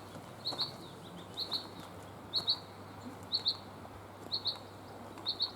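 A small bird calling over and over, a sharp double note about once a second.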